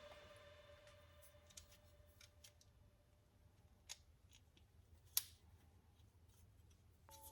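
Near silence with a few faint, scattered clicks, the loudest about five seconds in.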